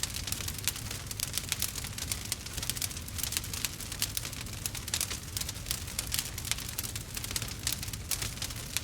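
Wood fire burning, crackling with a dense, irregular run of small pops and snaps over a low steady rumble.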